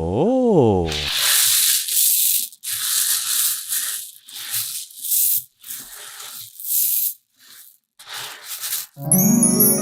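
A cartoon-style sound effect gliding up and back down in pitch, then a series of short rough rubbing or tearing sounds with gaps between them. Chiming music starts near the end.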